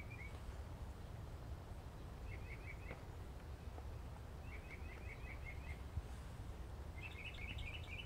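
A small bird chirping in short runs of quick notes, about four to six in each run, repeated several times, over a faint steady low background rumble.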